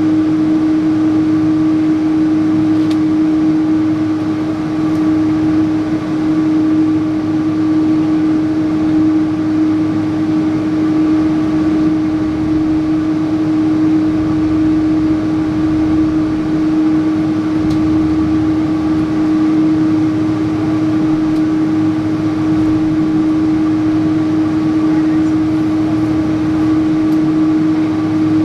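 Cabin noise inside a Boeing 777-300 airliner: the jet engines and air systems running steadily, a constant drone with one strong hum over an even rush.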